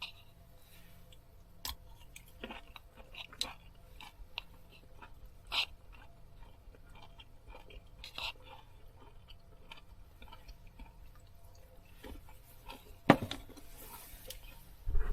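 Scattered small clicks, taps and crinkles of things being handled close by, with one sharp knock about thirteen seconds in.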